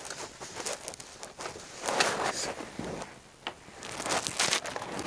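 Rustling, crinkling and scraping of materials being handled while a breeder's panels and frame are pulled apart, with scattered small clicks and two louder stretches, about two seconds in and about four seconds in.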